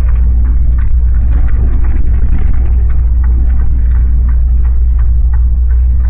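Steady, loud low rumble of a running motor vehicle, with faint irregular ticks above it.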